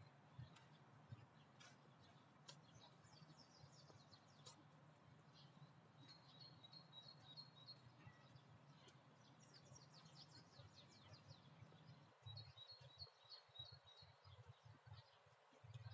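Faint songbirds chirping, with a rapid trilled phrase about six seconds in and again about twelve seconds in, over a low steady background hum.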